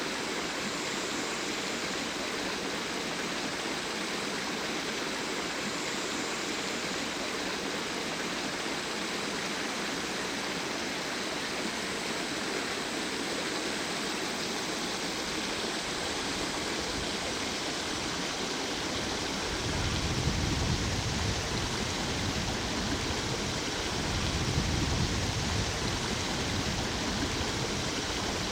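Stream water flowing and splashing in a steady rush. About two-thirds of the way in, a deeper low rumble joins the rush.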